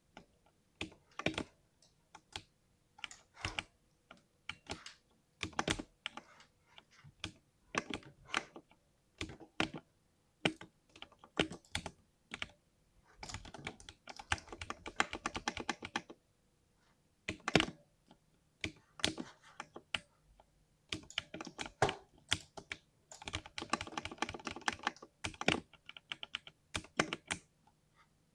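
Typing on a 60% mechanical keyboard: irregular single key strikes, with two stretches of fast, dense keystrokes, one around the middle and one later on.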